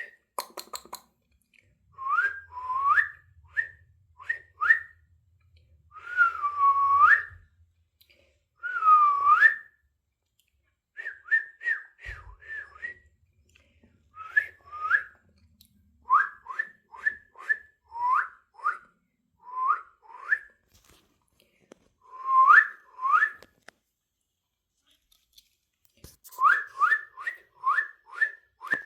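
A person whistling to pet parrots: runs of short, quickly rising notes, with a few longer swooping notes that dip and then climb, in groups separated by short pauses.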